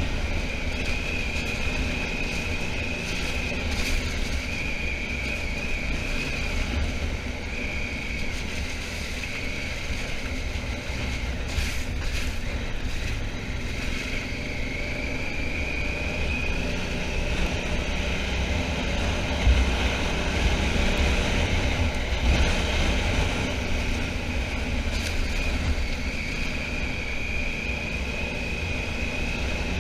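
Honda Africa Twin motorcycle riding along: engine running under steady heavy wind noise on the microphone, with a high whine that drifts up and down in pitch.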